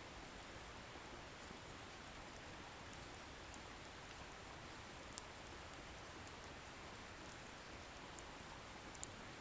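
Wood fire burning with a faint steady hiss and sparse tiny crackles, and two sharper pops of the burning firewood, one about halfway through and one near the end.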